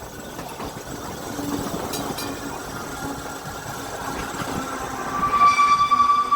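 Electric tram running on its rails, with a loud, steady high-pitched tone setting in about five seconds in.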